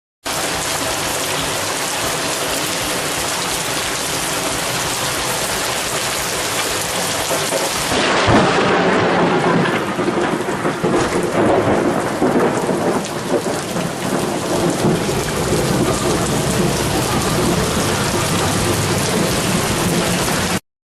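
Steady heavy rain, then about eight seconds in a sudden sharp crack of thunder from a close lightning strike, followed by rolling thunder that rumbles on for several seconds over the rain.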